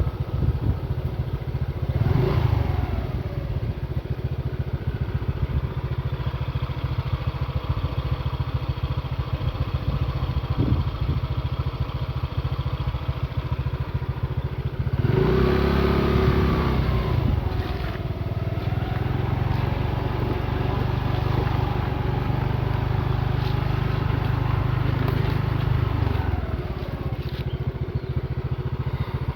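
Motorcycle engine running on the move, its pitch rising and falling as it speeds up and slows down, loudest about halfway through.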